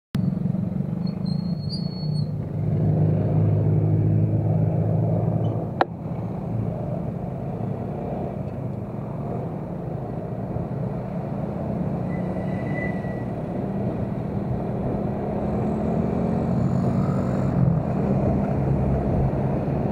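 Motorcycle engine running at low speed: a steady low hum. A single sharp click about six seconds in.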